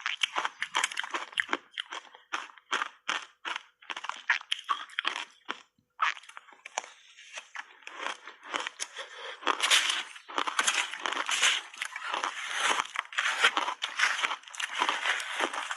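Shaved ice dusted with matcha tea and milk powder being crunched between the teeth. Quick separate crunches, about three or four a second, stop briefly about six seconds in, then come back denser and louder from about ten seconds on.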